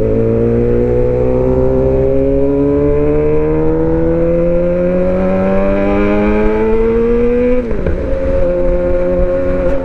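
Suzuki GSX-R750's inline-four engine, fitted with aftermarket headers, midpipe and M4 slip-on exhaust, pulling in gear with its pitch climbing slowly and steadily. About three quarters of the way through, the pitch drops sharply, then holds steady.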